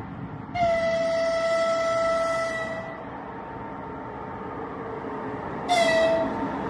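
Freight train horn: one long blast of about two and a half seconds, then a short blast near the end, over the steady rumble of the train running on the rails.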